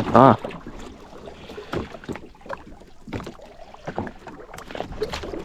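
Scattered knocks and clunks of gear on a small open fishing boat while a fish pot is being hauled in.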